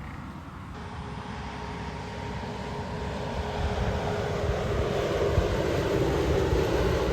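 Heavy truck approaching on the highway, its engine and tyre noise growing steadily louder.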